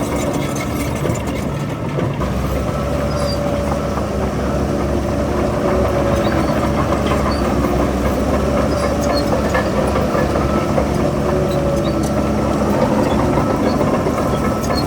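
Diesel engine of heavy earthmoving machinery running steadily: a deep rumble with a steady hum over it and faint clanks and clicks throughout.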